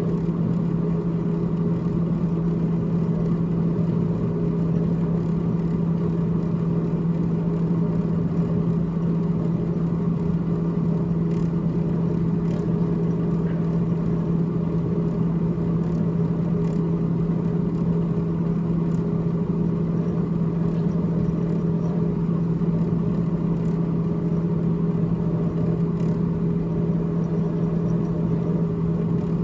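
Freezer fan of a GE GTH18XCTZRBB refrigerator running with a steady low hum.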